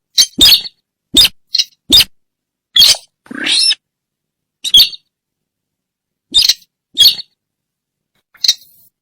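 A sintar bird lure call: short, harsh bird calls repeated at uneven intervals, about eleven in all, with silence between them.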